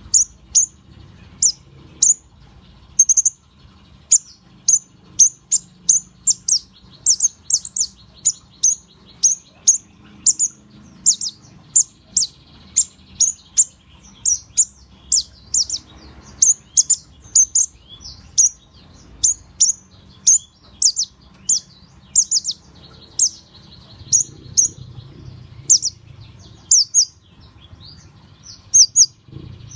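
Kolibri ninja (konin) songbird chirping: short, sharp, high-pitched chirps repeated about twice a second.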